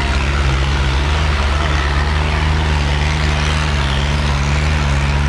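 Tractor diesel engine running steadily at even revs, a deep, constant engine note.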